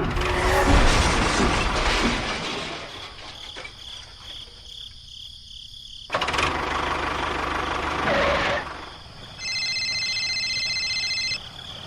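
Engine running in two short stretches, each cut off abruptly, followed near the end by a steady high electronic tone lasting about two seconds.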